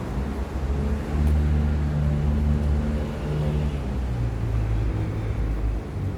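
A motor vehicle's engine running close by on a city street, a low steady drone that drops in pitch about four seconds in, over traffic noise.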